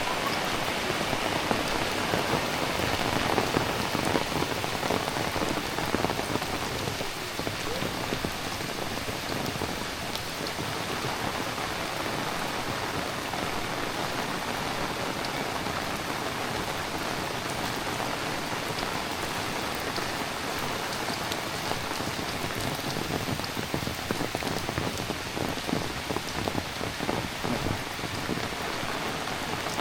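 Heavy rain falling steadily and pattering on surfaces, with scattered sharper drips.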